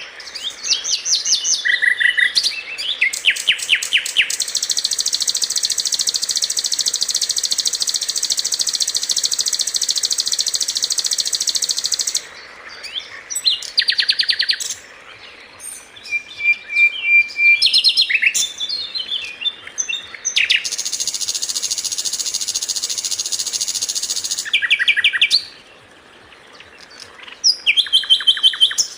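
A caged songbird singing energetically: long, very fast, high trills that run for several seconds at a time, between which come short whistled notes and quick series of chirps.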